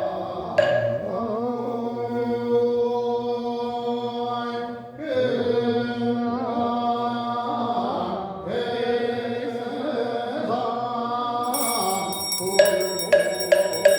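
Buddhist ritual chanting, sung in long held phrases that break twice. Near the end, regular percussion strikes come in at about three to four a second.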